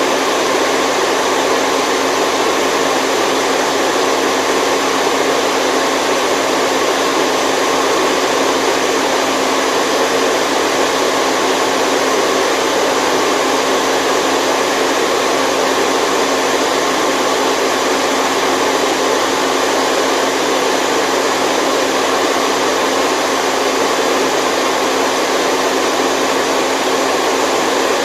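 Steady, unbroken white noise: an even hiss like a hair dryer or fan running, with no change in level or pitch.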